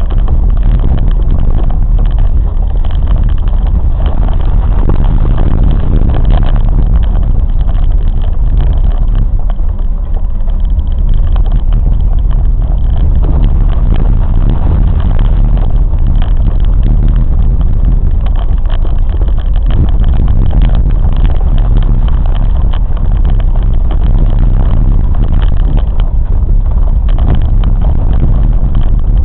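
Moving train's steady running noise, a loud, even rumble strongest in the low range.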